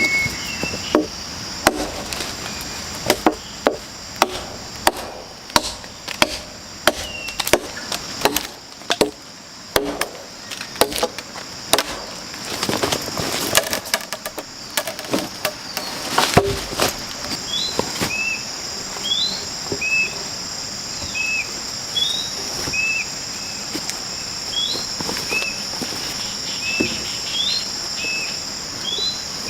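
Repeated chopping strikes on wood, roughly two a second, that stop about halfway through. Insects buzz steadily throughout, and in the second half a bird gives a short call about once a second.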